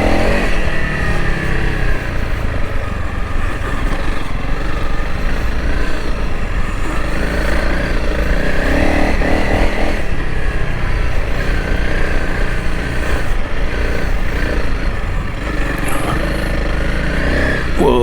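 Honda CRF300L Rally's single-cylinder four-stroke engine running under way on a soft sand track, its revs rising and falling several times as the throttle is worked.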